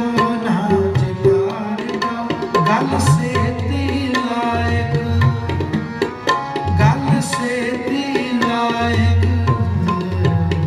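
Tabla playing a lively rhythmic accompaniment, with low gliding strokes from the bass drum, under sustained harmonium notes in an instrumental passage of Sikh kirtan.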